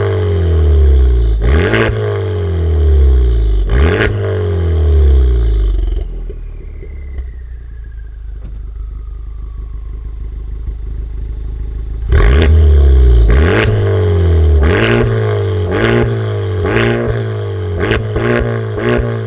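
Honda Civic Type R FK8's 2.0-litre turbocharged four-cylinder free-revving at standstill through a Remus front pipe and valved cat-back exhaust, with the valves open. It gives three quick revs, settles back to idle for about six seconds, then gives a run of about seven quick revs one after another.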